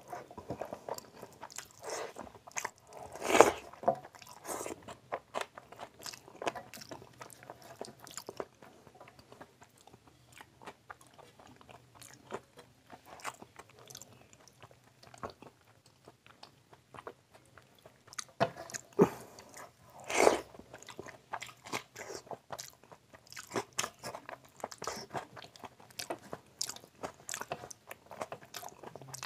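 Close-miked chewing and wet mouth smacking of curry and rice eaten by hand, with fingers squishing rice and gravy on a steel plate. Irregular small clicks throughout, with a few louder smacks about three seconds in and again around twenty seconds in.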